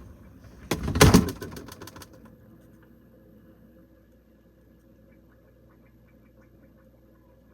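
Refrigerator door being shut, a burst of knocks and rattles about a second in, followed by a faint steady hum in the closed fridge.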